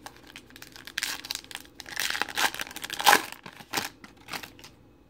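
Foil wrapper of a trading card pack being torn open and crinkled in the hands, an uneven run of crackling that is loudest a little after the middle.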